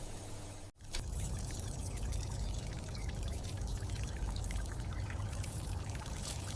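Water pouring and trickling: a steady splashing wash full of small drips, broken by a brief gap near the start.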